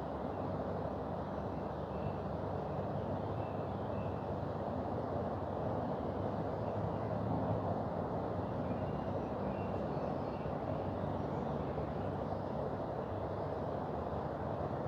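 Mountain river rushing: a steady, even noise of flowing water.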